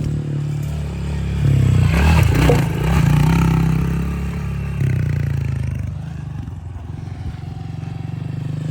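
Honda CRF110 pit bike's small single-cylinder four-stroke revving under load through a rough dirt section. It is loudest about two seconds in, then eases to a lower, steadier run before picking up again near the end.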